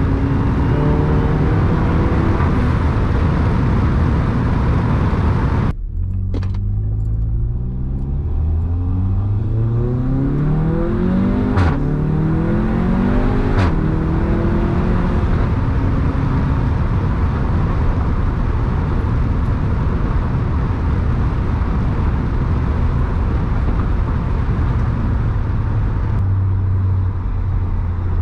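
Seat Leon Cupra 300's turbocharged 2.0-litre four-cylinder engine, fitted with an induction kit and resonator delete, pulling hard with its note rising steadily. Two short sharp cracks come at about twelve and fourteen seconds in, and the engine note then settles to a steadier drone.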